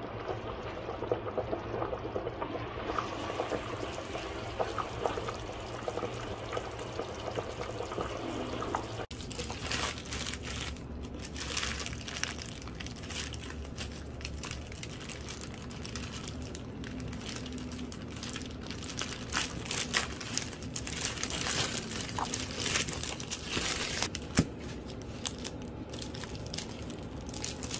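Close-up handling sounds: an even pouring or trickling texture for about nine seconds, then, after a sudden cut, a run of irregular crinkling and rustling.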